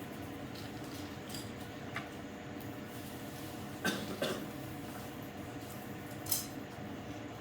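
A few light clicks and clacks of drawing tools being handled and set down: one about two seconds in, a quick pair around four seconds, and a sharper one past six seconds, over a steady low hiss.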